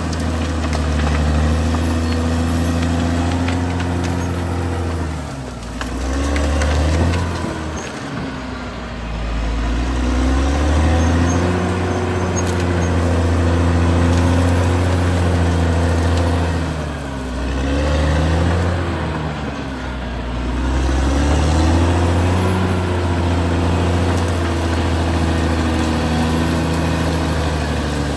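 Caterpillar D6R XL bulldozer's diesel engine running steadily. Its pitch sags and climbs back twice, about five seconds in and again around seventeen seconds.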